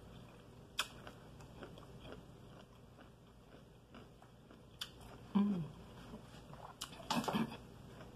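A person chewing takeout food with soft mouth sounds and a few sharp clicks. There is a brief hummed "mm" about five seconds in and another short vocal sound around seven seconds.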